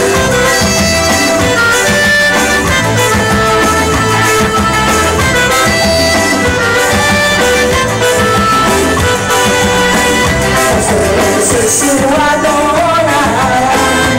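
Forró band music playing steadily, with held instrument tones over a repeating low beat.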